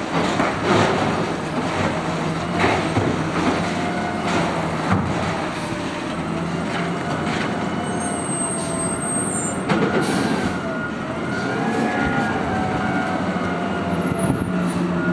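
Natural-gas automated side-loader garbage truck running its hydraulic lifting arm at idle. The engine runs steadily while the hydraulics whine, rising and falling in pitch, and a cart knocks and bangs several times as it is lifted and emptied.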